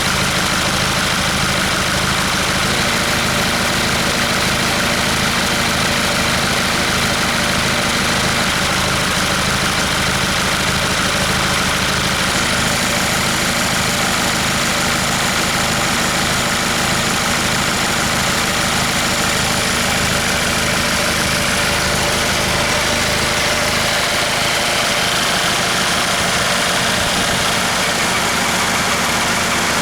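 Hyundai/Kia D4CB 2.5-litre four-cylinder common-rail diesel engine idling steadily. The deep low rumble weakens somewhat in the last few seconds.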